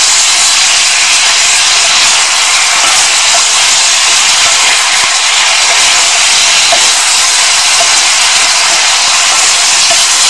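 Chicken bones and holy basil stir-frying in hot oil over high heat, with a loud, steady sizzle.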